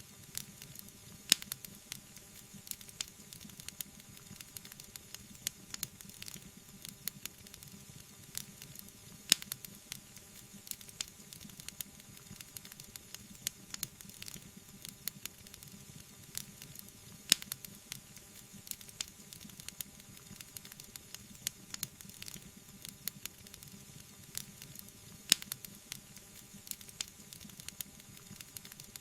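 Wood fire burning in a fireplace, crackling steadily with many small sharp pops over a soft hiss. Four louder pops come about eight seconds apart.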